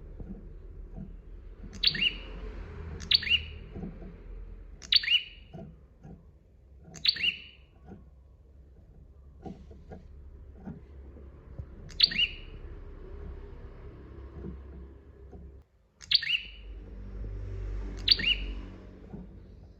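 A prenjak songbird giving short, sharp, high chirps that drop steeply in pitch. They come singly or in quick pairs, about every one to four seconds, over a low background rumble.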